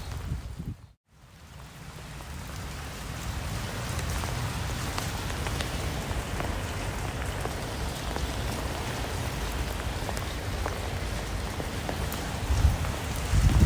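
Steady rain falling, an even hiss with scattered ticks of drops. It cuts out briefly about a second in, then fades back in over the next few seconds.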